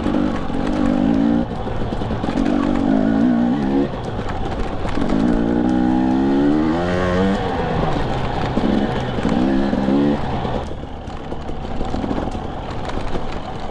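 Husqvarna TE250i two-stroke dirt bike engine revving in about four bursts as the throttle is worked on the trail. The pitch climbs and falls within each burst.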